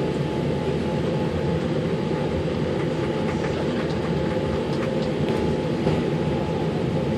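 Steady cabin noise inside a Boeing 787-8 airliner taxiing after landing: a low, even rumble from the engines at idle, the air system and the rolling gear, with a faint steady whine and a few light ticks.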